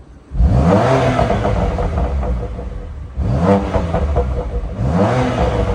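BMW M2 Competition's twin-turbo straight-six revved three times through newly fitted exhaust tips. Each rev starts suddenly, its pitch climbs quickly and then falls back, and the first is the loudest.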